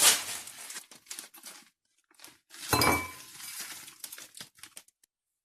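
Kitchen handling sounds: two sharp clatters about three seconds apart, the second ringing briefly like glass or crockery, with crinkling and light rustling between and after.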